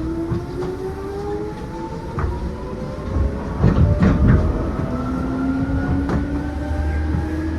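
Seibu New 2000 series electric train running, its motor and gear whine climbing steadily in pitch as it gathers speed, over a low rumble. The wheels clack over rail joints a few times, most in a cluster about four seconds in.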